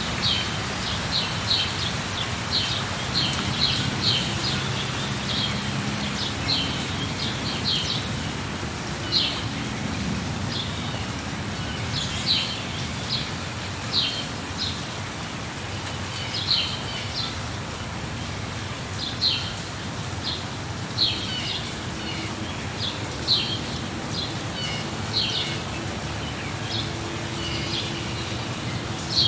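Steady rain with a bird chirping over it in short, high notes, given in quick clusters every second or two.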